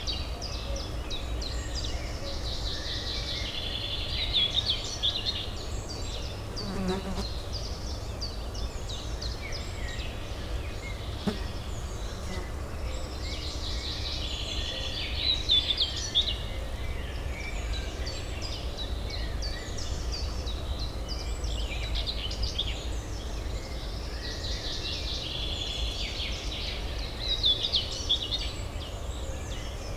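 Songbirds chirping in repeated bouts of rapid high notes over a steady low urban hum.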